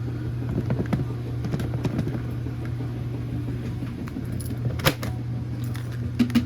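Hoover pet vacuum cleaner running with a steady motor hum, with scattered clicks and rattles of grit and debris being picked up and one sharp click about five seconds in.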